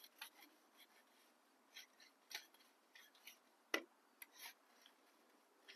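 Near silence broken by faint, scattered metallic clicks and scrapes of hand tools working a fastener loose on a motorcycle exhaust, with one sharper click a little before the end.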